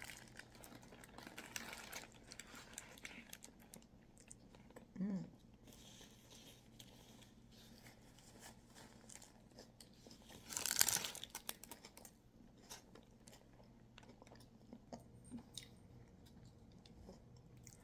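A person chewing a bite of a vegetable wrap with lettuce, pepper and cucumber: faint crunches and mouth clicks throughout. A brief hum about five seconds in, and one louder, noisier crunch about eleven seconds in.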